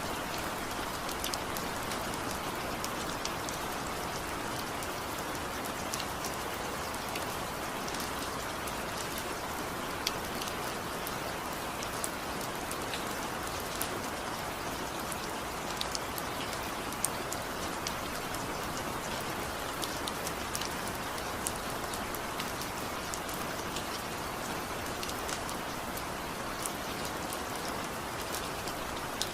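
Steady rain falling, an even hiss with scattered sharp drip ticks from drops striking a surface, with no thunder.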